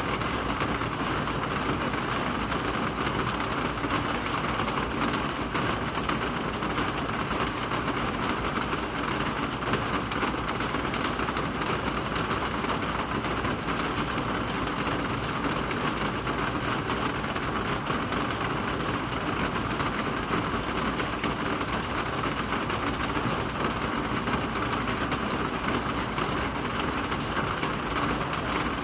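Steady rain falling: an even hiss dotted with the ticks of many small drops.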